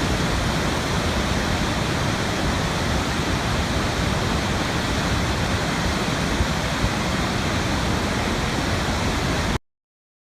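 Steady, unbroken rush of water, with no rise and fall of separate waves; it cuts off suddenly near the end.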